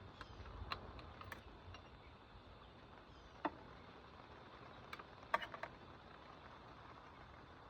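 Scattered light clicks and taps from hand tools and parts being handled during the repair. There are several in the first couple of seconds, a sharper one about three and a half seconds in, and a quick cluster of clicks a little past five seconds, all over a faint steady background.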